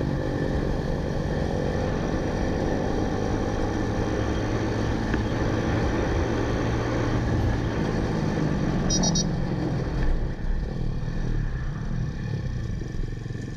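Motorcycle engine running steadily while riding, easing off about ten seconds in.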